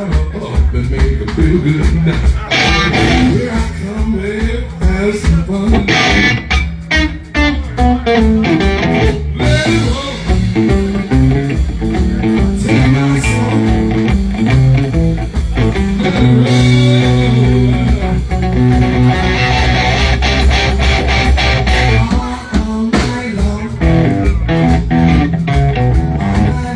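Blues band playing, with guitar over bass and a steady beat.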